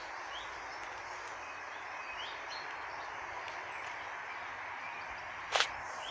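A bird gives short rising chirps every second or two over a steady background hiss. About five and a half seconds in comes a single sharp click.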